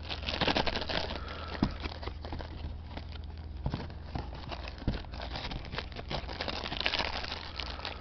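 Packaging being handled and crinkled while a new air filter element is unwrapped: irregular rustles and small clicks, over a steady low hum.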